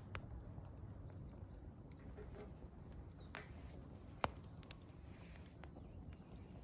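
Firewood burning in an open campfire, crackling with scattered sharp pops; the loudest pop comes about two-thirds of the way through.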